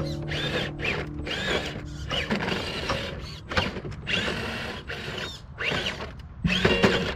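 Element Enduro Trailwalker RC crawler's electric motor and gears whining in short bursts that rise and fall in pitch as the truck crawls over rocks, with music underneath.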